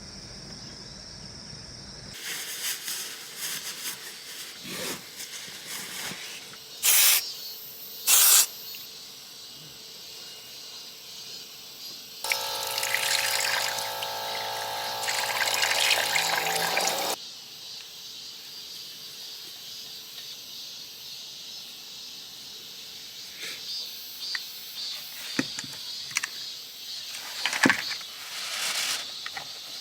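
Water pouring and splashing, with crickets chirping steadily for the first two seconds. Two short loud hisses come about seven and eight seconds in, and a small motor hums for about five seconds midway.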